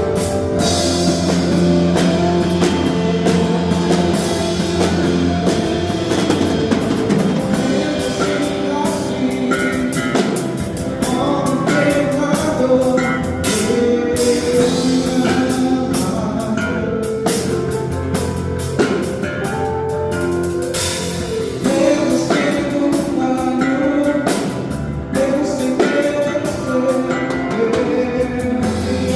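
A live band playing a worship song in rehearsal: drum kit, electric guitar and bass keep a steady beat, with singing over them.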